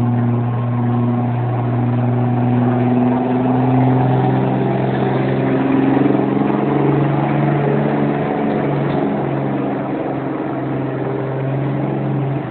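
Dodge 2500 pickup's engine running hard under load while pulling the sled in a truck pull: a loud, steady drone whose pitch steps up a little twice in the first half.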